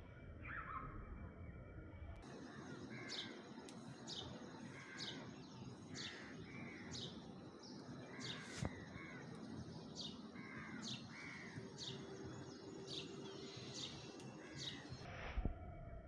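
Birds calling: a quick, regular series of high calls that sweep downward, about two a second, with lower arched calls mixed in. The calls begin abruptly about two seconds in and stop shortly before the end, with one sharp click a little past the middle.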